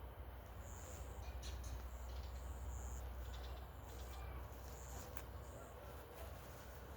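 Birds chirping: short, high chirps repeating irregularly, over a steady low rumble.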